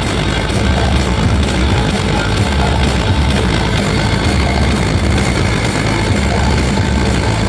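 Loud music with heavy, pulsing bass played through big sound-system speaker rigs, dense and harsh on the recording.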